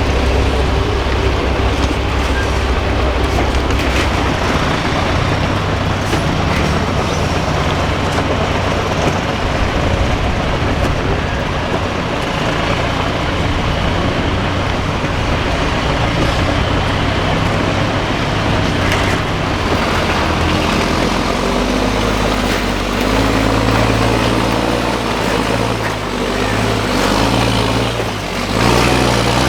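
Diesel engine of a 6x6 MAN off-road trial truck running under load, its note rising and falling with the throttle as it works through the course.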